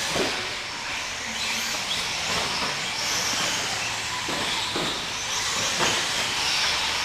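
Several nitro-engined RC short course trucks racing, their small engines whining high as they rev up and down, with a few knocks.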